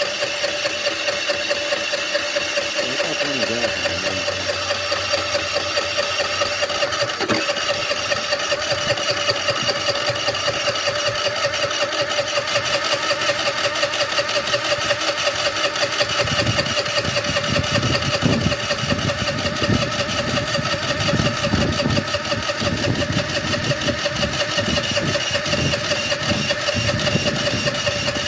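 Omega 50cc moped engine being cranked over and over without catching, a steady whine with a rapid pulsing beat. The engine is hard to start even with a good spark at the plug.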